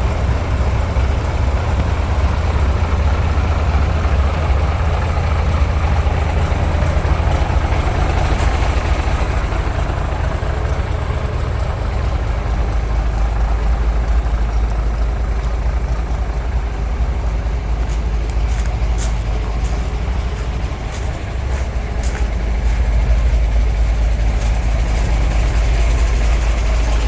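MAN Steyr 6x4 truck's diesel engine idling with a steady low rumble, easing slightly about three-quarters of the way through and then picking up again. A few faint clicks are heard in that stretch.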